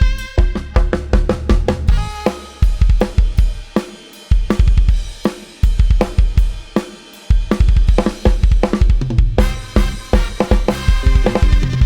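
Virtual drum kit (Addictive Drums 2) playing a fast beat of kick, snare, hi-hat and cymbals over a low sampled bass line, in Thai procession-style band music.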